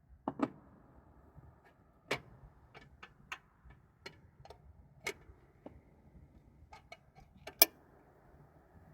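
Campfire wood crackling: irregular sharp pops and snaps over a faint hiss, the loudest snap near the end.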